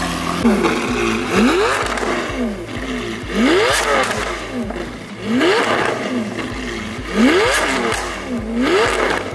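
Lamborghini Aventador SV's V12 revved in five quick blips, about one every two seconds. Each rev rises sharply and falls back, with exhaust pops and crackles as it drops: the backfires that shoot flames from the exhaust.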